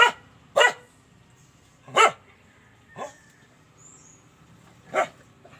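A dog barking five times at uneven intervals, sharp single barks with the fourth one fainter.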